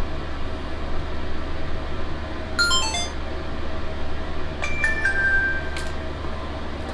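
A steady low hum, with a quick run of short descending electronic beeps about two and a half seconds in, then a couple of held electronic tones with a click around five seconds in.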